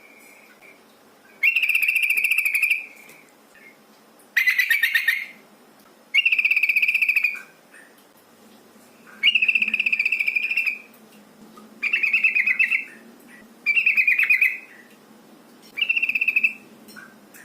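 Yellow-vented bulbul (trucukan) giving seven harsh, rapidly pulsed buzzing calls, each about a second long and repeated every two to three seconds. This is a lure call that the uploader presents as a female calling a male.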